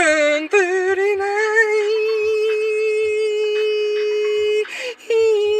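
Sung intro jingle: one long held note, briefly broken about five seconds in before a second held note begins, over a soft low beat.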